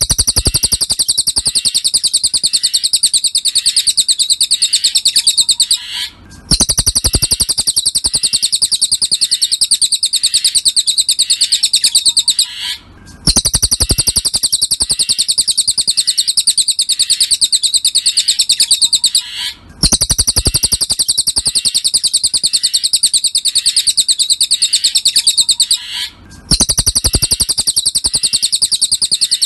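Cililin songbird song: a very fast, high-pitched buzzing trill held in long phrases of about six seconds, each cut by a short break, repeating evenly over and over as a masteran tutoring recording.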